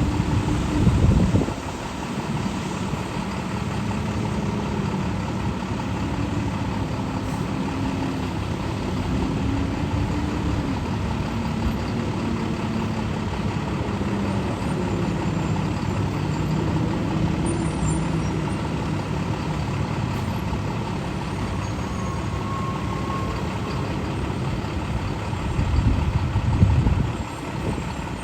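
Convoy of utility line trucks driving past, a steady rumble of heavy truck engines whose pitches drift slowly up and down as vehicles go by. A louder truck passes close about a second in and again near the end.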